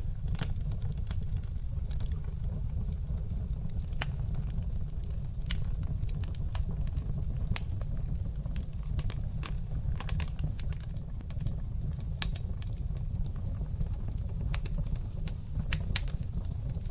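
Wood fire burning in a fireplace: a steady low rumble from the flames with irregular sharp crackles and pops, a few louder pops standing out here and there.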